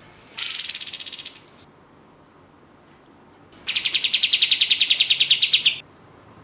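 Kapas tembak songbird calling two fast, rattling trills, the first short and the second about two seconds long, each a rapid run of about a dozen sharp notes a second.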